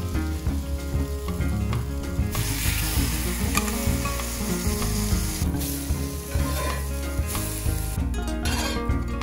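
Slices of egg-battered bread sizzling as they fry on a hot cast-iron griddle, starting about two seconds in, over steady background music.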